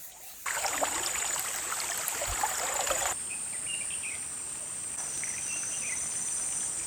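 Forest ambience: insects buzzing in a steady high tone with a few brief bird chirps. For the first three seconds a louder, dense crackling rush is heard, and it stops abruptly.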